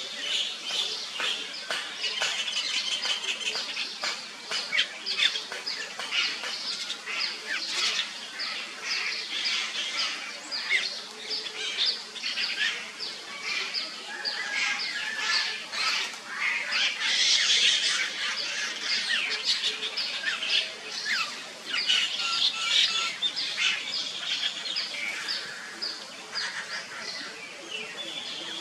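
Birds chirping and calling among the trees: a dense, continuous run of short high chirps with a few brief whistled notes.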